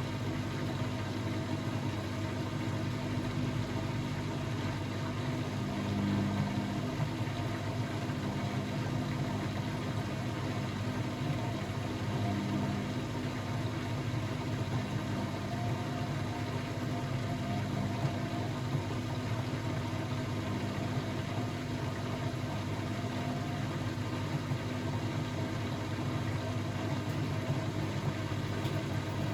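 Blomberg WAF 7442 SL washing machine running, a steady low motor hum with no pauses.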